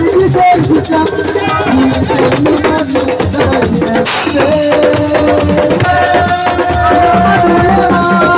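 Assiko band music: fast, dense drumming with rattles and held melodic tones, with a short hissing crash about halfway through.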